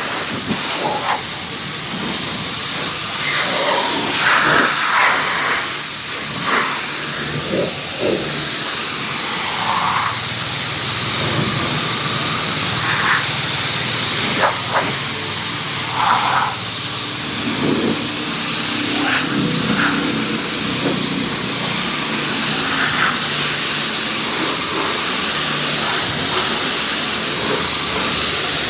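Pressure washer spraying water: a steady hiss with scattered spatters and splashes.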